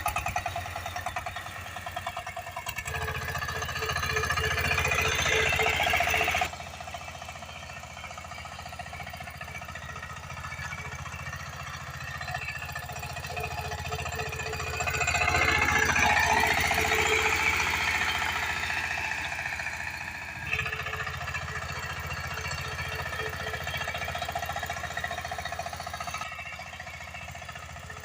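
Single-cylinder diesel engine of a power tiller running with a fast, even chugging knock. It grows louder for a few seconds in the middle of the stretch, and its loudness shifts abruptly several times.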